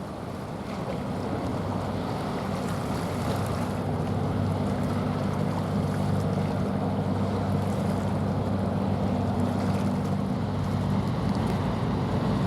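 Container ship's engine passing with a steady low hum that grows louder over the first few seconds and then holds, over wind on the microphone and the wash of water.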